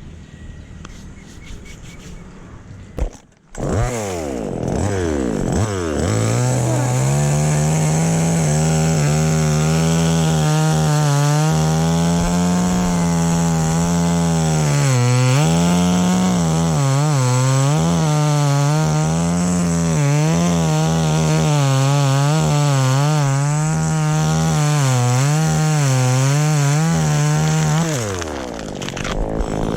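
Petrol chainsaw revving up about three and a half seconds in, then held at high throttle as it cuts into the wood of the anjili trunk, its pitch dipping and recovering again and again under the load of the cut. Near the end it drops back off the throttle.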